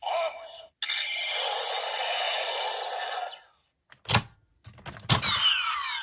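Electronic sound effects from a Kamen Rider W CSM Double Driver toy belt playing Dopant Gaia Memory sounds. A long buzzing effect is followed by a plastic clack about four seconds in, then another clack and a burst of swooping electronic tones near the end.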